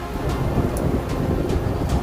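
Thunder rumbling: a low, continuous rolling rumble that swells in right at the start, with background music alongside.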